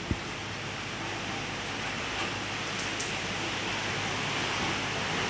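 Steady rush of hurricane wind and rain, growing a little louder toward the end.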